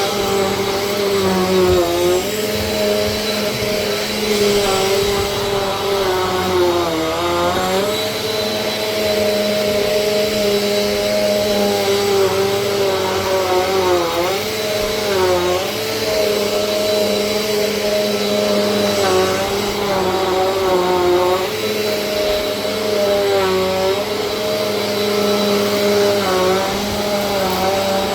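Vacuum cleaner running steadily, its motor whine dipping briefly in pitch every few seconds as it is worked over the floor.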